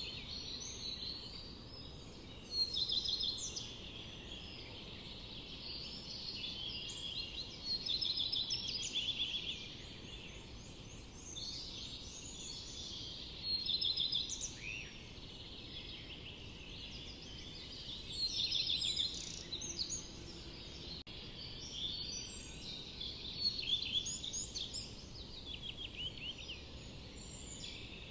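Songbirds singing in a forest: several overlapping birds give short bursts of quick, high chirps and trills every few seconds, over a faint steady low background noise.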